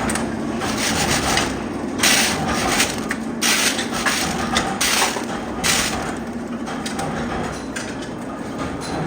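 Hex-nut factory machinery running with a steady hum, over irregular clatter and several short hissing bursts.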